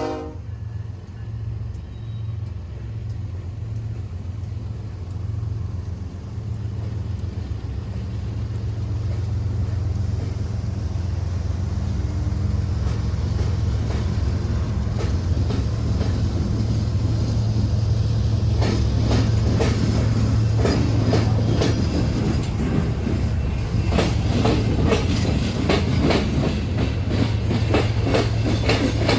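BNSF train passing: the locomotives' diesel engines give a steady low drone, and from about fifteen seconds in the wheels clatter over the rail crossing diamond in quick, irregular clacks that get louder and denser.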